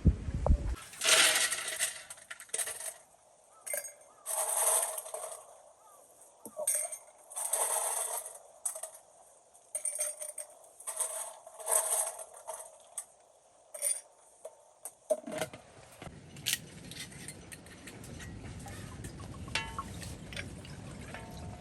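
A series of short clinks and clatters of small hard objects. About fifteen seconds in, a steady low rumble takes over, with a few faint clicks.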